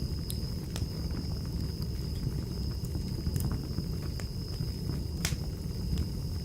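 Wood fire crackling in a fireplace: a steady low rumble of burning with scattered sharp pops and snaps, the loudest about five seconds in, over a thin steady high tone.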